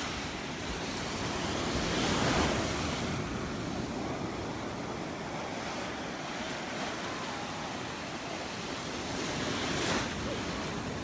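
Gentle surf washing onto the beach, with waves breaking about two seconds in and again near ten seconds, and wind across the microphone.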